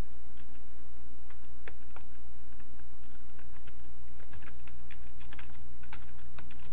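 Computer keyboard typing: irregular clicks that come thicker in the second half, over a steady low hum.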